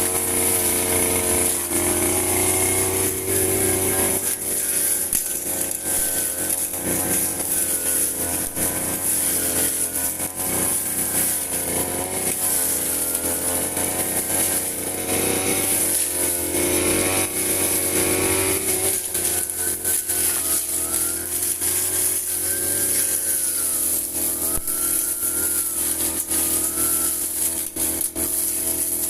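Firman FGB 528 two-stroke brush cutter running at high speed while cutting grass, its engine pitch wavering up and down as the load changes.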